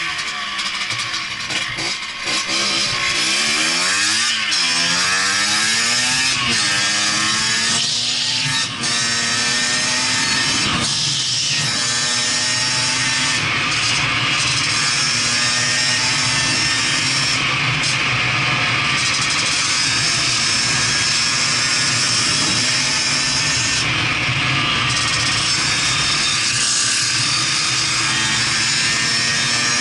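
Yamaha DT 50 MX's 50 cc two-stroke single-cylinder engine, its pitch rising and falling several times as the throttle is worked over the first twelve seconds or so, then running at a steady speed.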